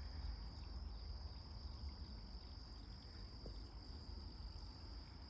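Crickets trilling steadily as one unbroken high-pitched tone, over a faint low rumble.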